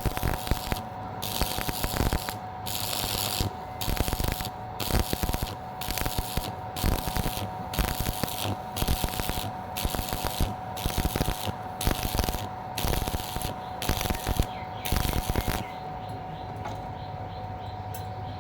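Angle grinder working metal in repeated short passes, about one a second, each a rasping hiss over the steady whine of the motor. The passes stop near the end while the motor keeps running.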